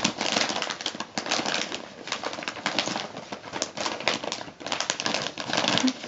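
Christmas wrapping paper crinkling and rustling in quick, irregular crackles as it is handled and folded around the cat.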